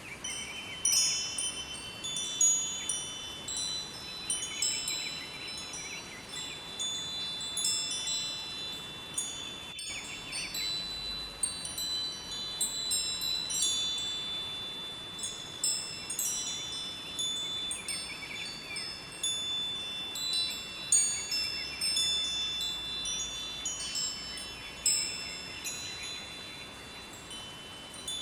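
Wind chimes ringing, many high tones struck irregularly and overlapping as they ring on, over a faint steady rush of flowing river water.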